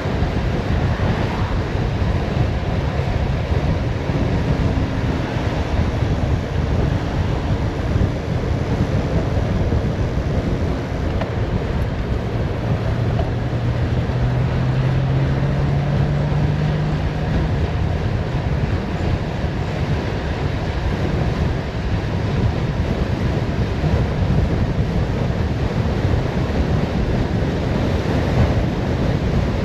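Steady wind noise buffeting the microphone on a fast downhill bicycle ride, with a faint low hum rising slightly for a few seconds in the middle.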